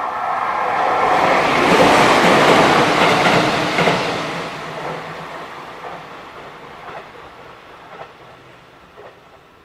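A JR Central 313 series electric commuter train passing close at speed: wheel and rail noise swells to a peak about two to three seconds in, then fades as it runs away. Near the end, single clicks of its wheels over rail joints come about once a second.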